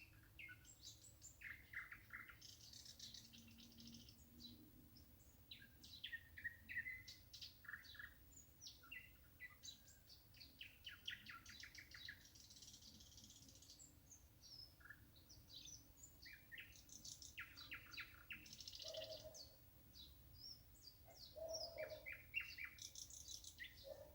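Faint chorus of several songbirds, with short chirps and quick trills overlapping one another.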